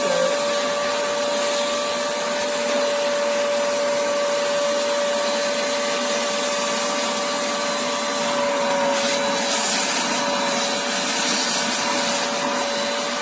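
Hoover Spotless portable carpet and upholstery spot cleaner running steadily, its suction motor giving a steady whine over a hiss, with a few short surges of hissing in the second half as the nozzle sucks at the carpet.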